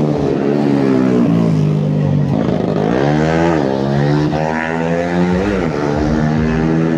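Tuned 130cc underbone race motorcycle engines revving hard on track, the engine pitch climbing and dropping back several times as the riders work the throttle and gears.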